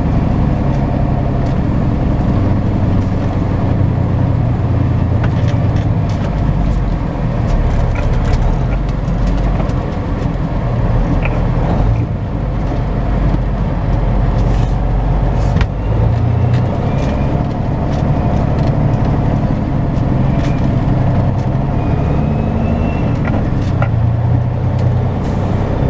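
Semi-truck diesel engine running as the truck drives slowly, its low drone shifting in pitch a few times.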